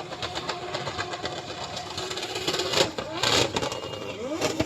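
Motor vehicle engines running, with short loud bursts of noise about three seconds in and revs rising in pitch near the end.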